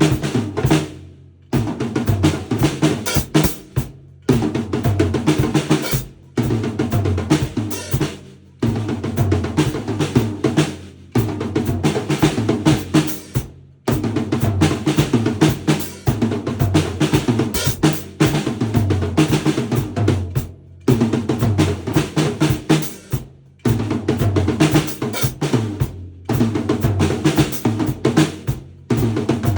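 A drum kit being played, with bass drum, snare and rimshots, in short runs of two or three seconds broken by brief full stops.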